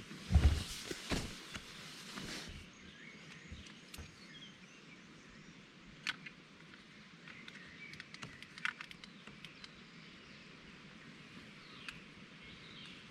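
A few loud knocks and handling clunks in the first two seconds, then quiet outdoor ambience with faint, short bird chirps and scattered sharp clicks.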